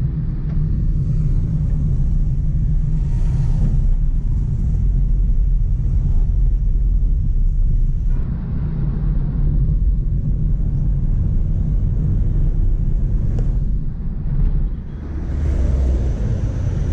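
Steady low rumble of a modified Maruti Suzuki Ritz driving, its engine and road noise heard from inside the car.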